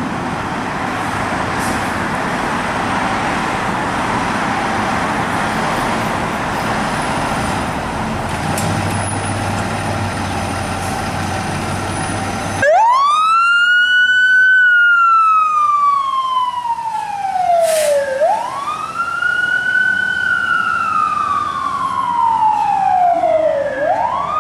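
Road traffic noise, then about halfway through a fire engine's siren starts up, wailing in slow cycles that rise quickly and fall away slowly, about every five and a half seconds.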